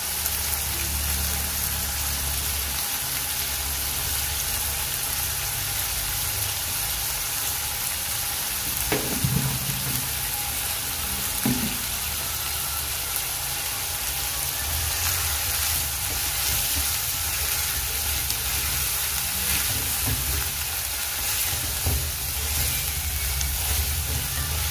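Small fish and prawns frying in oil and spice paste in an aluminium wok, sizzling steadily, with two brief knocks about nine and eleven seconds in.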